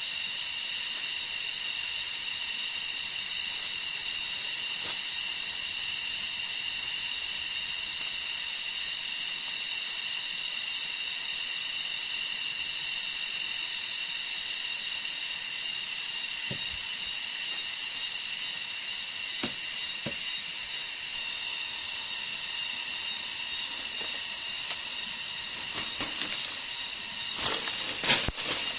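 Steady high-pitched insect drone of a rainforest chorus, in the manner of cicadas. A few sharp knocks or taps come near the end.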